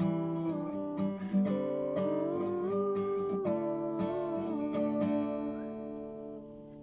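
Acoustic guitar music being strummed, with sustained notes that fade out over the last couple of seconds as the song ends.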